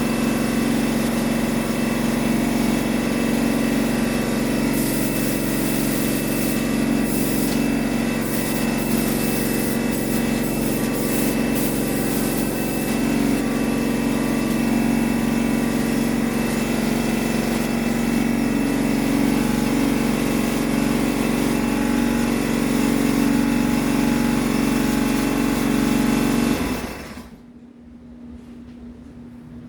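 Shop air compressor running steadily under load, with short spurts of high air hiss from a paint spray gun in the first half. The compressor shuts off abruptly shortly before the end, leaving a much quieter hum.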